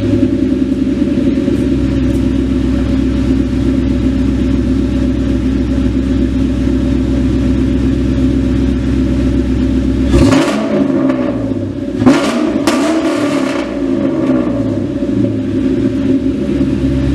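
A vehicle engine running steadily at a low pitch, then revved several times about ten seconds in, with its pitch sliding up and down.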